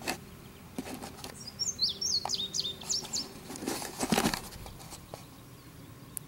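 A small bird chirping a quick run of short, high, sliding notes between about one and a half and three seconds in, over a faint steady hum. Brief rushes of noise come near the start, around one second and around four seconds in.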